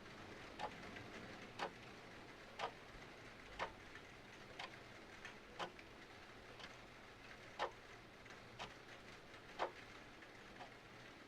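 Clock ticking about once a second, some ticks louder than others, over a faint steady hiss of rain.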